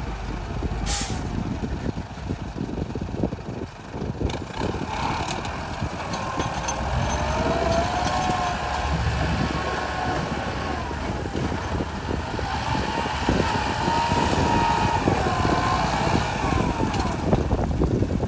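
Truck engine running under load, its pitch slowly rising and falling, with a short sharp hiss of air about a second in.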